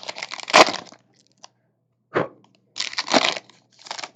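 A foil trading-card pack wrapper crinkling and tearing as it is opened, in several short bursts. The sharpest and loudest comes about half a second in.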